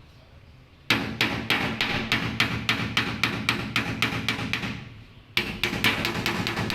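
Rapid, evenly spaced knocks, about six a second, starting about a second in, fading out near the five-second mark and starting again abruptly shortly after.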